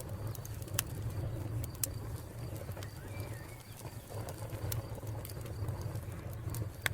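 Wood fire crackling: scattered sharp pops and snaps over a steady low rumble, with a faint steady cricket chirr and birds calling in the background.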